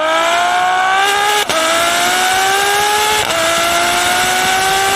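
V12 supercar engine accelerating hard under full throttle through the gears. The pitch climbs steadily and drops sharply at two quick upshifts, about one and a half and three and a quarter seconds in.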